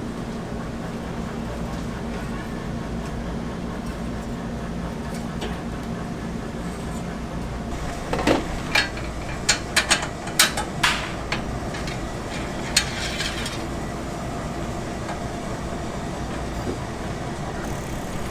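Steady background hum, with a run of sharp clinks and knocks from kitchen utensils being handled in the middle.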